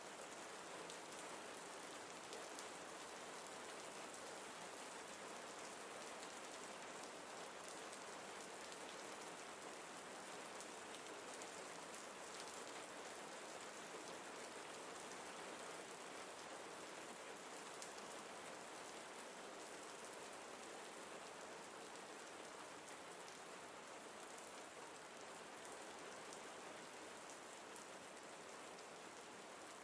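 Faint, steady rain falling, an even wash of drops with no let-up.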